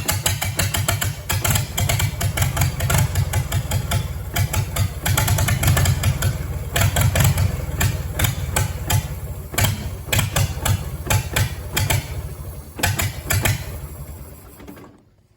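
Farmall tractor engine running roughly with uneven firing, then winding down and dying near the end. It won't stay running, which the owner puts down to the carburetor.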